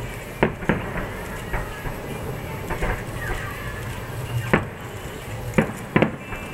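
Aerial firework shells bursting in the sky: a string of sharp bangs at uneven intervals, some in quick pairs, the loudest about half a second in and again in the second half.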